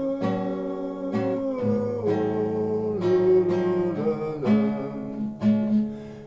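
Acoustic guitar strummed in D major under a held melody line that steps down in pitch, as the instrumental intro to a song.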